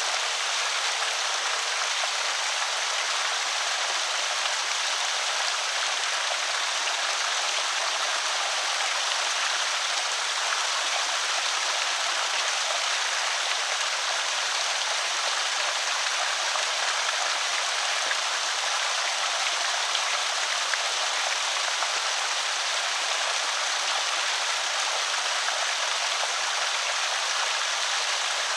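Creek water pouring over a small spillway: a steady, even splashing and trickling rush that does not change.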